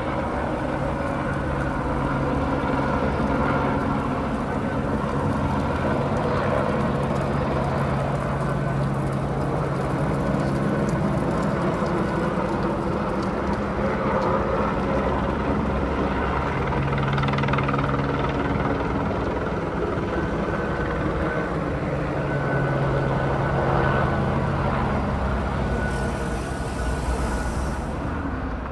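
Steady rumble of vehicle noise, with a low hum that fades in and out several times and a brief rise in hiss near the end.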